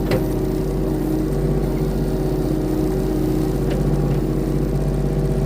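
Engine of a compact construction machine running steadily at a constant speed, with no revving, and a faint knock or two.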